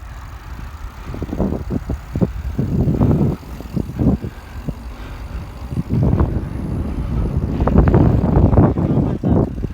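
Irregular low rumbling and buffeting from a phone recording while being carried on a moving bicycle: wind on the microphone mixed with rattle from the ride, growing louder from about six seconds in.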